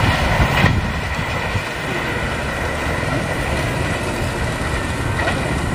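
Passenger train running away along the track: a steady low rumble of its wheels on the rails.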